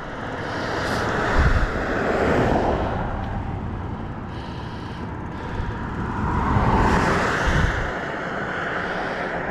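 Motor vehicles passing on a highway: a rush of tyre and engine noise swells twice, about two seconds in and again around seven seconds, each with a low rumble as it goes by.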